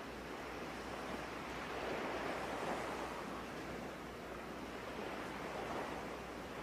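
Soft rushing of ocean surf in a background ambience, swelling twice and subsiding, over a faint steady low hum.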